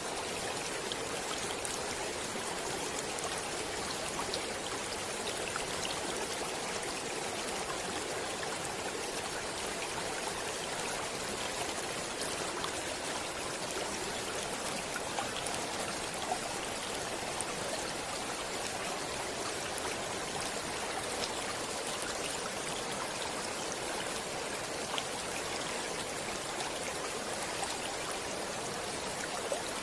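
Stream water running, a steady, even rush with light splashes.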